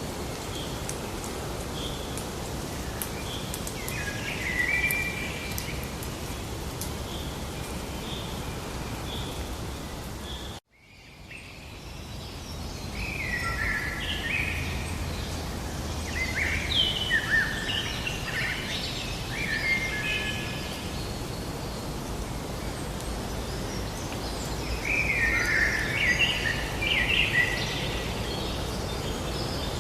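Small birds singing over a steady background hiss of nature ambience. A short chirp repeats about once a second at first; the sound drops out briefly about ten seconds in and fades back up, then fuller, varied song phrases follow.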